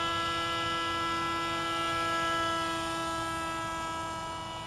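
RC model airplane's motor and propeller running steadily at reduced throttle for slow, nose-high flight: a steady hum with several overtones, growing slightly fainter near the end.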